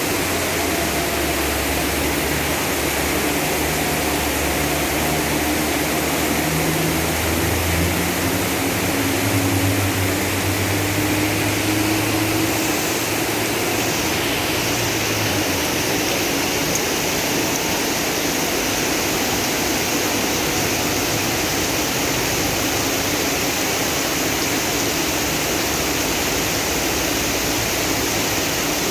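Heavy rain pouring in a steady loud hiss, with floodwater running. A motor vehicle's engine runs under it for about the first half, its pitch wavering, then fades into the rain.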